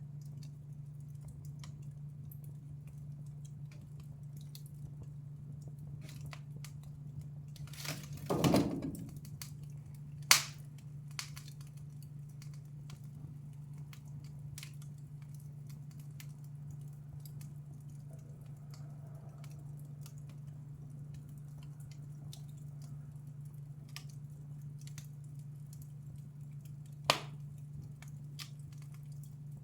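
Wood fire in a fireplace crackling: scattered small ticks and snaps over a steady low hum, with a brief louder burst that falls in pitch about eight seconds in and two sharp, loud pops, one about ten seconds in and one near the end.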